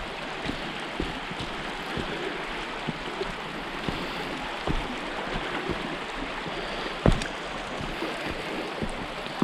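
Water of a natural spring running steadily over rocks, with scattered short knocks, the loudest about seven seconds in.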